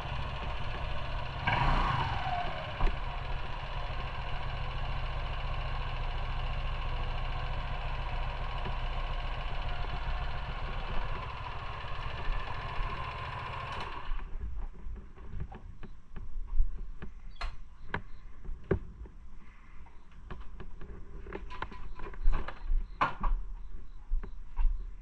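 Motorcycle engine idling steadily, then cut off suddenly about fourteen seconds in, followed by a scatter of sharp clicks and knocks.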